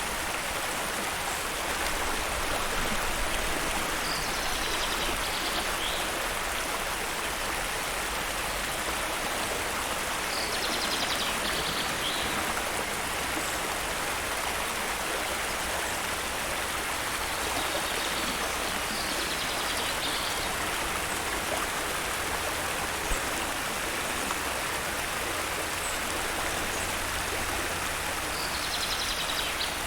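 Steady rushing water of a waterfall, an even unbroken hiss. A short high-pitched call sounds over it four times, roughly every eight seconds.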